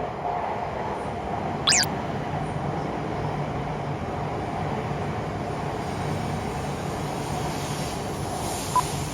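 Shinkansen train, a Hayabusa coupled with a Komachi, running past with a steady rushing noise that takes on more hiss in the second half. A brief falling squeal comes just under two seconds in, and a short electronic beep sounds near the end.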